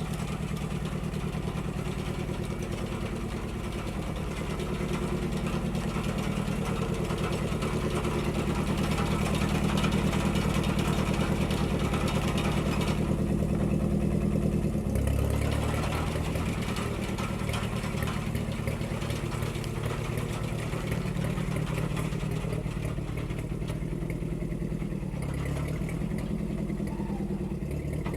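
A 1946 Ford 2N tractor's four-cylinder flathead engine running steadily, a little louder for several seconds before its note changes about fifteen seconds in.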